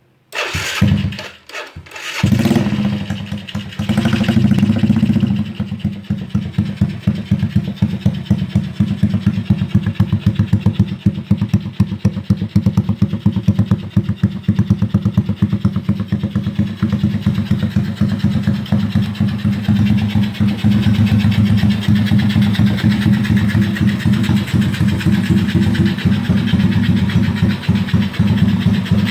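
Modified Yamaha Jupiter Z four-stroke underbone motorcycle with an aftermarket 'kou kidal' exhaust starting: a couple of seconds of broken cranking bursts, catching about two seconds in. It then idles with a pulsing exhaust beat, revving briefly around four to five seconds in.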